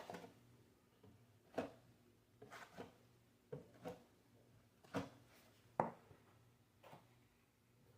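Drywall knife spreading and scraping compound on a wall: faint short strokes, about one a second.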